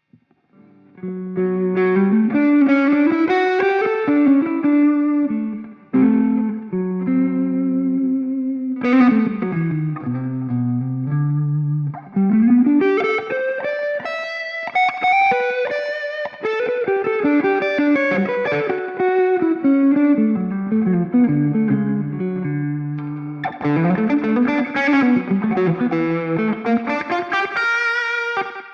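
Electric guitar played through a Ring Red Swan distortion pedal, with a distorted, sustaining tone on a melodic single-note lead line that slides and bends between notes. The playing starts about a second in and pauses briefly twice, near six and twelve seconds.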